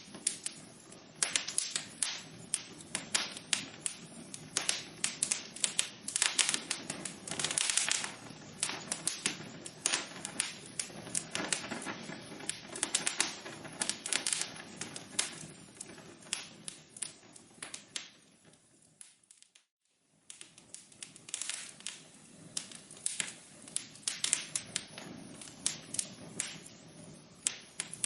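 Wood fire in a fireplace crackling, with a stream of irregular sharp pops and snaps over a soft hiss. About two-thirds through, the sound fades away for about a second and then comes back.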